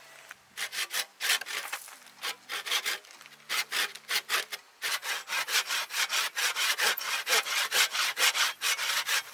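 Hand saw cutting through wood, most likely firewood for a campfire: short runs of rasping strokes with brief pauses, then a steady run of about three strokes a second from about halfway.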